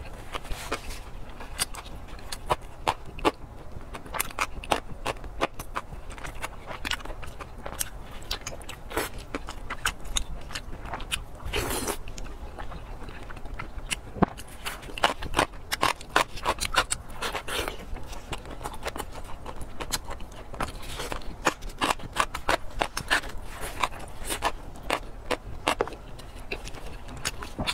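Close-miked wet chewing and lip-smacking of fatty braised pork belly, with many irregular sharp mouth clicks throughout and a longer breathy noise about twelve seconds in.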